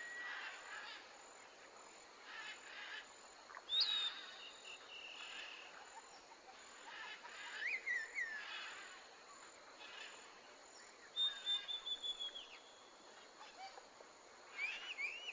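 Faint outdoor ambience with small birds chirping and whistling now and then: a short call about four seconds in, another near eight seconds, a run of falling whistles a little past eleven seconds, and quick repeated chirps near the end.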